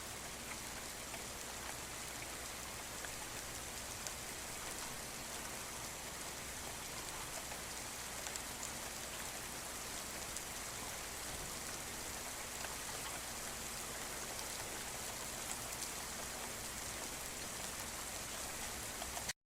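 Steady rainfall, an even hiss with scattered drops ticking, that cuts off suddenly near the end.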